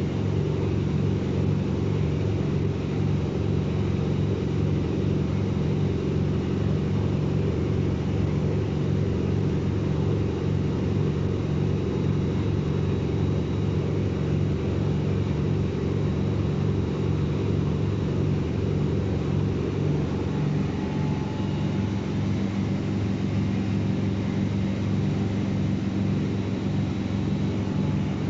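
Washing machine running, its motor giving a steady hum.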